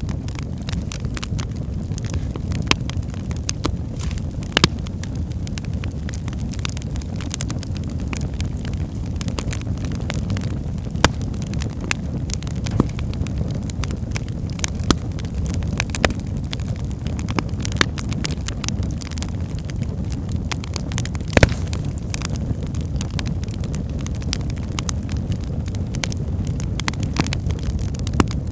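Wood fire burning in a fireplace: a steady low rumble with frequent sharp crackles and pops of burning logs, scattered irregularly, one louder pop a little past two-thirds of the way through.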